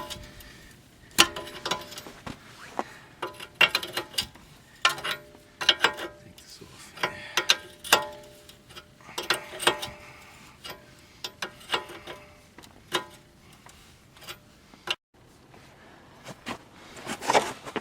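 Hand wrench working a car's tie rod loose: an irregular run of sharp metal clicks and clinks, some ringing briefly, as the wrench is worked back and forth on the fitting.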